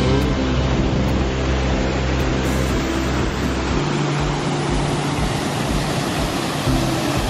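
Steady rush of a large waterfall at close range, an even wash of noise with no breaks.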